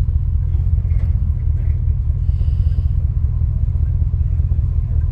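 Corvette under way, a steady low rumble of engine and road noise.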